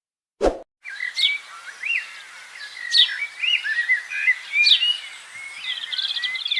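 A brief thump about half a second in, then several birds calling: sharp high notes swooping downward every second or two, short chirps and a fast trill near the end, over a faint steady hiss.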